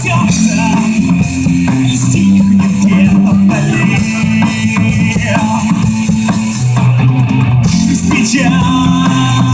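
A rock band playing an instrumental passage of a song, with electric guitar melody lines over bass guitar and a drum kit. The cymbals drop out briefly about seven seconds in.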